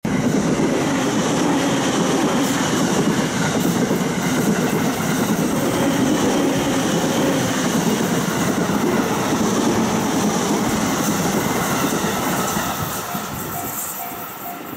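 A train passing close by on the Tohoku Main Line: a loud, steady rush of wheels on rails that fades away over the last couple of seconds.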